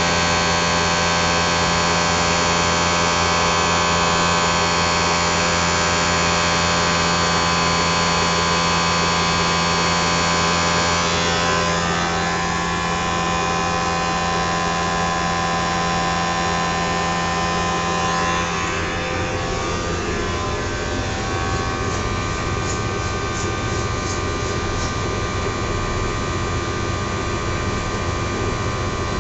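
Triangle blower motor running with a steady hum and a stack of steady whining tones over a rushing noise. Its tone pattern shifts twice, about 11 and about 19 seconds in.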